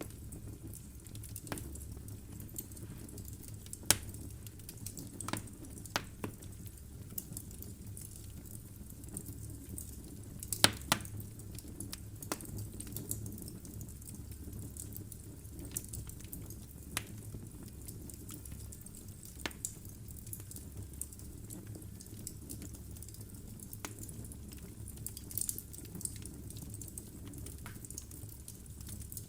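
Wood fire burning in a fireplace: a steady low rumble of flame with frequent sharp crackles and pops from the logs, the loudest about four seconds and eleven seconds in.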